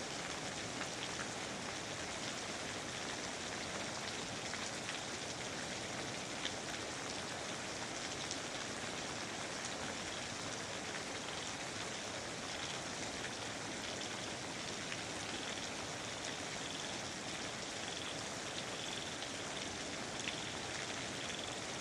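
Steady rain falling on foliage, an even hiss with scattered individual drops ticking. A faint, repeated high chirp joins in from about halfway through.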